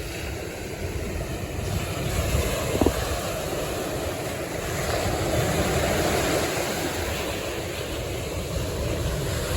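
Ocean surf washing in, with wind buffeting the microphone in low rumbles.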